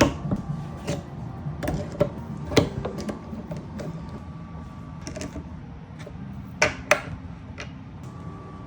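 Scattered sharp clicks and knocks of skateboard parts and tools being handled during assembly, over a steady low hum. The loudest knock comes about two and a half seconds in, and two close clicks come near seven seconds.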